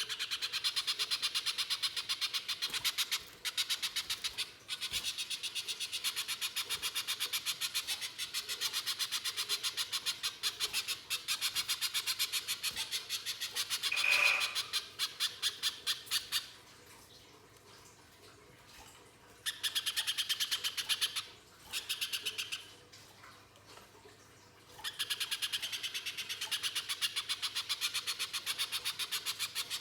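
Little spiderhunter (pijantung pisang) calling in long runs of rapid, harsh, sharp notes, several a second, broken by two pauses of a few seconds in the second half. There is one clearer single note about halfway.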